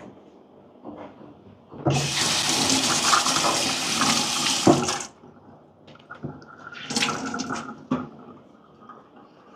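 Water tap running into a sink for about three seconds as a cloth is dampened under it, then a shorter run of water about two seconds later.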